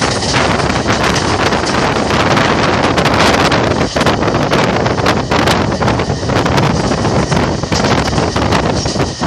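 Wind rushing over the microphone from the open door of a moving passenger train, over the rumble and clatter of the coaches' wheels on the track. A loud, continuous noise with irregular knocks through it.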